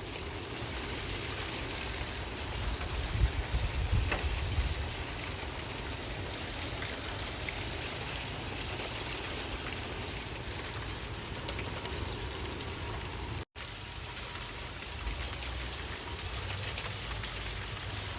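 Steady rain falling outdoors, an even hiss, with a brief low rumble of wind on the microphone about three to four seconds in.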